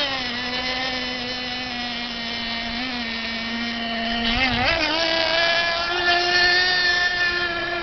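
Radio-controlled catamaran racing boat's motor running with a steady high whine, dropping in pitch just at the start, wavering about four and a half seconds in, then climbing to a higher pitch.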